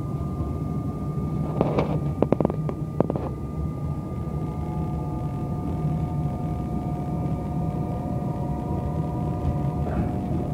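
Electric suburban train running, heard from inside the carriage: a steady rumble with a thin, steady whine above it. About two seconds in comes a brief clatter of several sharp clicks as the wheels run over the track.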